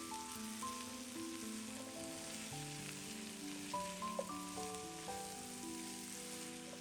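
Food sizzling and crackling in a hot frying pan, over background music of slow, held notes.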